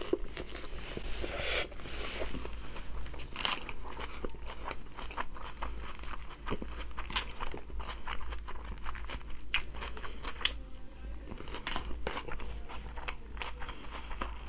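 A person chewing and biting crunchy food, with many short crisp crunches following one another.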